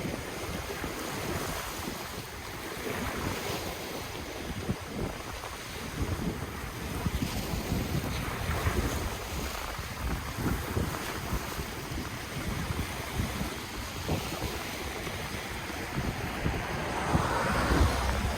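Ocean waves washing and breaking on the shore in a continuous rushing surf, with a louder wave surging in near the end. Wind rumbles on the microphone underneath.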